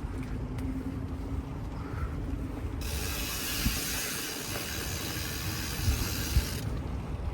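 BMX bike riding along, its rear freewheel hub clicking rapidly while coasting from about three seconds in until shortly before the end, over steady tyre and ground rumble, with a few light bumps.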